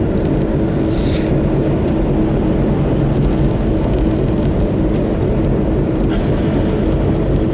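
Steady in-cabin engine and road noise of a small car driving at highway speed, with a constant low hum. A brief rushing noise comes about a second in.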